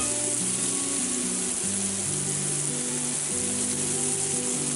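Diced onions and peppers frying in a cast iron skillet while they are stirred, with a steady sizzling hiss. Background music of held low notes plays alongside.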